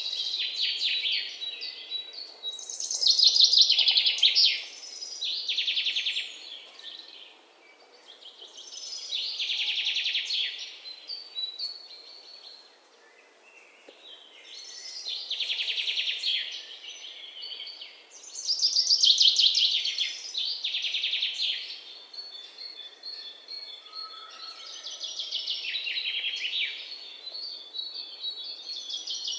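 Songbirds chirping: fast runs of high chirps and trills, each lasting a second or two, repeated every few seconds with short pauses between.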